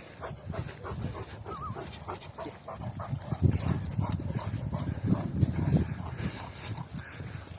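Sarabi dog (Iranian mastiff) panting in quick, repeated breaths, short of breath after play.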